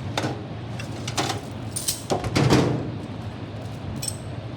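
A handful of knocks and clatters from objects being handled, the loudest a fuller thud about two and a half seconds in, over a steady low hum.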